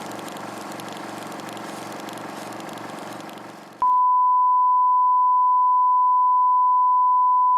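A dense, noisy din that fades out, then, about four seconds in, a loud, pure, steady beep tone at about 1 kHz that starts abruptly and holds without change.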